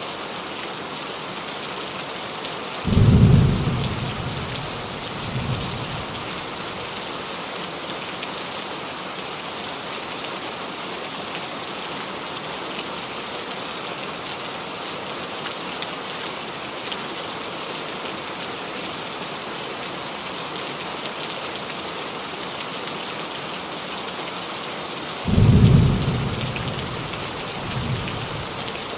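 Steady rain pattering on a roof, with two rolls of thunder: one a few seconds in and another near the end, each a sudden low rumble that fades, then a smaller second rumble.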